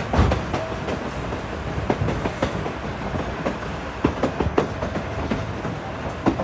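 Durango & Silverton narrow-gauge passenger car rolling along the track: a steady rumble with irregular clacks and knocks from the wheels and car.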